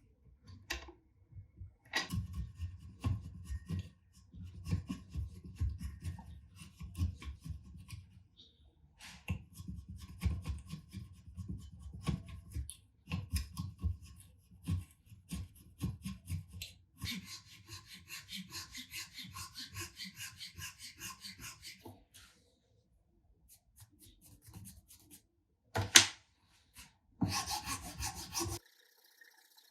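Hand-worked abrasive strokes on wood, back and forth in a steady rhythm, such as a wooden hammer handle being sanded or rasped. The strokes come in two long runs, then a faster, more even stretch of rubbing. A single sharp knock follows near the end, then a brief scrape.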